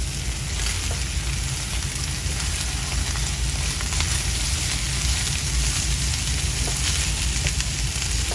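Eggs frying in a nonstick pan, a steady sizzle, with a few light taps and scrapes of a silicone spatula as they are turned and broken up.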